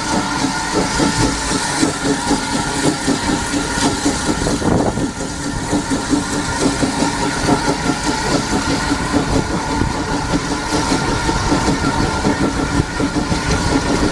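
Heritage railway train running, with a steady engine hum and a fast, even rattle throughout.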